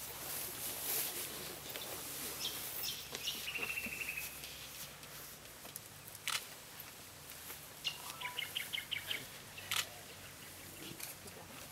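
Small birds chirping, with a quick rapid trill a few seconds in and another run of short chirps about eight seconds in; two sharp clicks sound in between.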